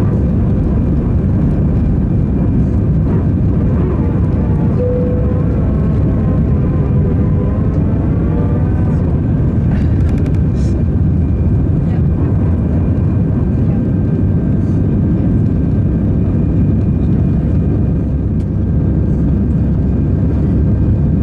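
Airbus A320 cabin noise during takeoff and climb-out: a loud, steady rumble of the jet engines and airflow, with a faint steady whine over it.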